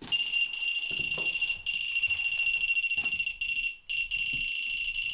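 REM pod's alarm sounding a steady high-pitched electronic tone with a slight warble, breaking off briefly past the middle. Faint knocks of handling sound beneath it.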